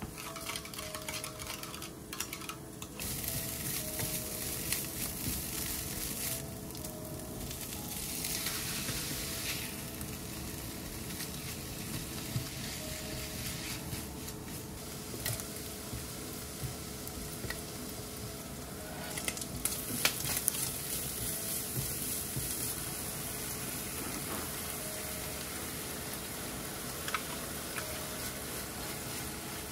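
Ground pork and chopped vegetables sizzling in a frying pan while being stirred and scraped with a spatula, with a few light clicks of the spatula against the pan. The sizzle swells in louder stretches about 3 seconds in, around 8 seconds, and again from about 20 seconds on.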